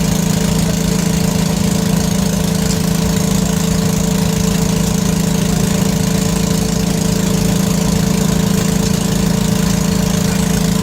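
Engine idling steadily, an even drone that does not change in pitch or level.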